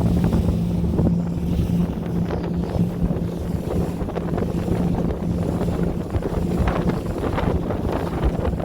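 Boat engine running with a steady drone while underway at sea, with wind buffeting the microphone and water rushing past the hull.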